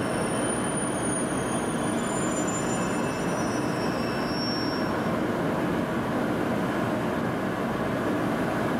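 N700-series Shinkansen train at the platform: a steady rumbling noise, with faint high whines that fade out about five seconds in.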